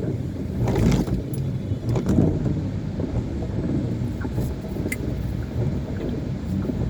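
Car cabin ambience in rain: a steady low rumble from the engine and traffic, with a few brief knocks and clicks about one, two and five seconds in.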